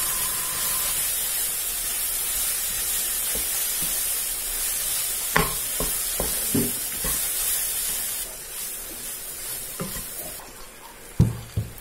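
Grated coconut sizzling as it is stir-fried in a kadai, turned with a wooden spatula that knocks and scrapes against the pan several times from about five seconds in, the loudest knocks near the end. The coconut is being fried until dry and crumbly.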